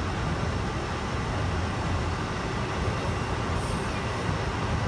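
Steady low hum and rumble of an E6 series Komachi Shinkansen train standing at the platform with its onboard equipment running.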